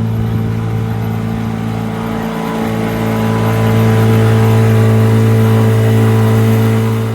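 A tour boat's motor running with a steady low hum, growing louder about three seconds in.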